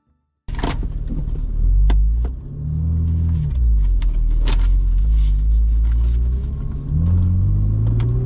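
Small roadster's engine running under load as the car climbs, cutting in about half a second in; its pitch rises, drops back about three seconds in, and rises again near the end, with a few sharp ticks over it.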